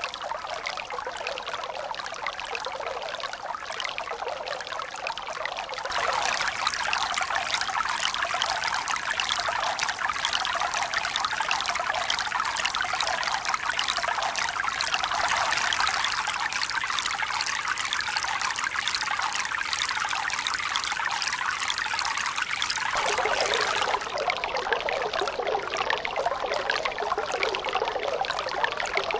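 Steady running, splashing water, a dense patter of small splashes. About six seconds in it turns abruptly louder and fuller, and near the end it drops back to a thinner sound.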